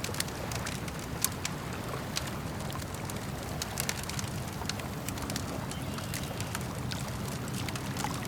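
Campfire crackling with irregular sharp pops, over a steady low wash of lake water lapping.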